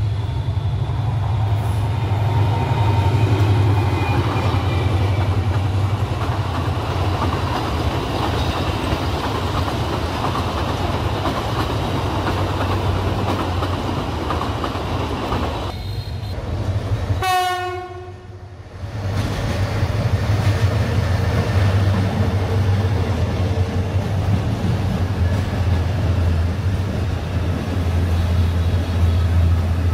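Bangladesh Railway passenger train running past, with a steady low engine drone and wheel-on-rail clatter, and a train horn sounding. The sound drops away briefly a little past halfway.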